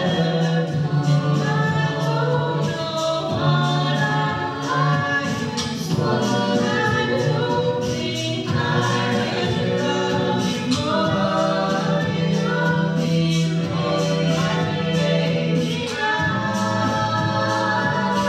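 A cappella vocal group singing in close harmony, with a sustained low bass part under the chords and regular sharp percussive clicks above.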